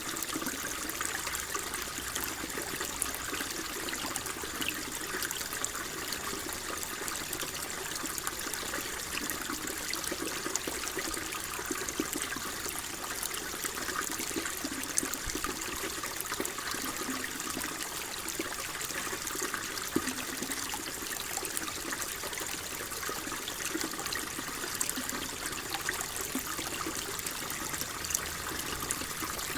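Water flowing and trickling steadily, a constant gentle babble with small splashes throughout.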